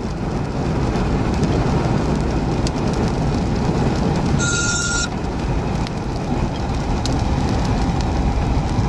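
Steady, loud rushing noise of heavy wind and rain heard from inside a car as it drives near a tornado. A short electronic beep sounds about halfway through.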